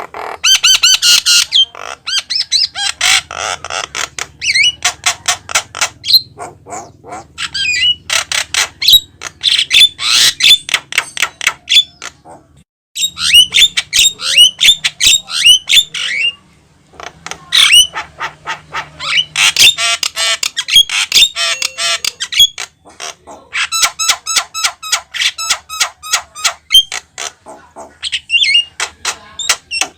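Javan myna calling at length: fast runs of harsh squawks, chattering notes and short whistles in long bursts, broken by brief pauses twice in the middle.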